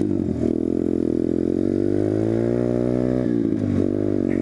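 SSR125TR pit bike's single-cylinder four-stroke engine running under way, its note climbing slowly, with the revs dipping briefly about three seconds in before settling steady again.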